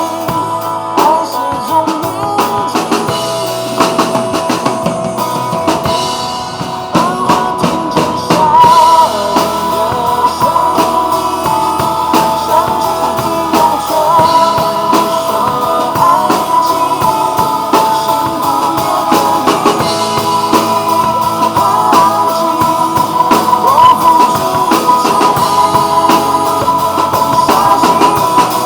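Drum kit played live along to a recorded Mandopop song, the drummer keeping a steady beat with many cymbal and drum hits over the song's melody and guitar.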